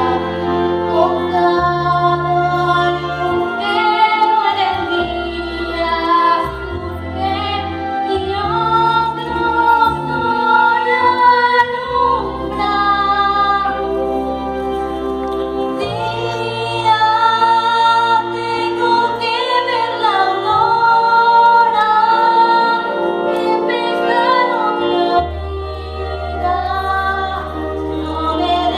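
A song: a woman singing a slow melody in long held notes over a backing of sustained bass and chords.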